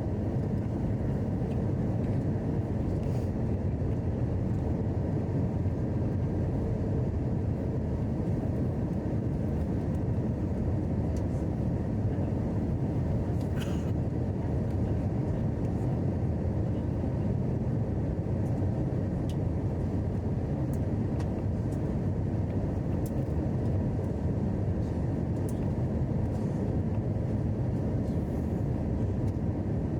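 Steady rumbling cabin noise inside an Airbus A321 airliner: engine and airflow noise, even throughout.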